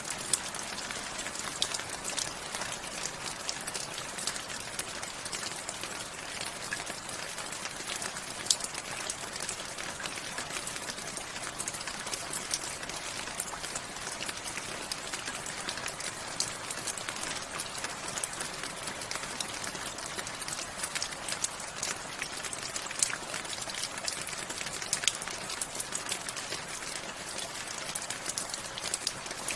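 Steady rain falling, a dense hiss with many sharp individual drop ticks hitting a surface.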